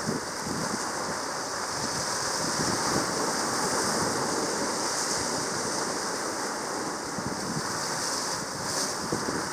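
Steady rush of sea water, like surf washing, with a constant hiss and a crackling low end.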